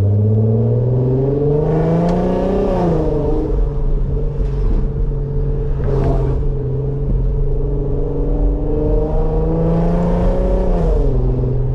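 Car engine accelerating under a manually shifted gearbox: the engine note climbs, drops at an upshift about three seconds in, holds steady while cruising, then climbs again and drops at another shift near the end. The car is loud.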